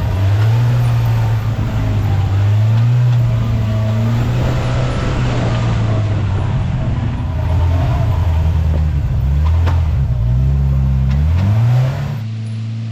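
Polaris RZR Pro R side-by-side's four-cylinder engine pulling under throttle on a trail, its note rising and falling with the throttle and climbing in quick rises near the end. About twelve seconds in it drops back to a lower, quieter note.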